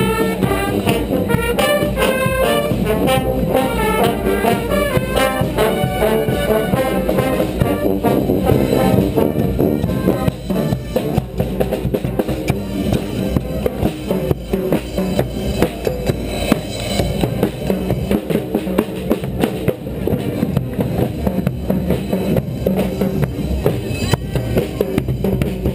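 Street brass band playing outdoors, horns carrying a melody over bass drum and snare. The horns are clearest for the first ten seconds or so, after which the drums carry the music.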